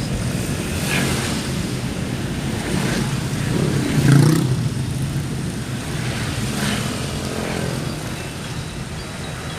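Motor vehicle running along a road: a steady engine rumble with road noise, and other traffic swelling past, loudest about four seconds in.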